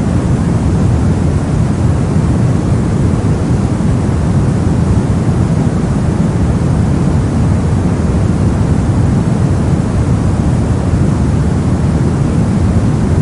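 Steady soft noise of the white-noise kind played for sleep, deep-toned with most of its weight in the low end, even and unchanging.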